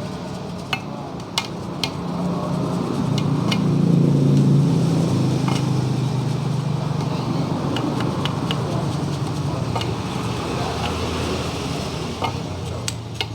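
A motor engine runs with a low rumble that swells over the first few seconds and slowly eases off. Scattered sharp clicks and knocks from metal parts being handled sound over it.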